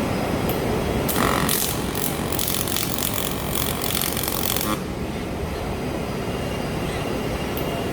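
Welding arc crackling for about four seconds, starting about a second in, over a steady low machine drone.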